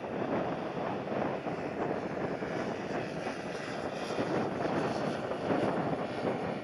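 Jet airliner on landing approach, its engines a steady rushing noise that swells a little in the middle, mixed with strong gusty wind on the microphone.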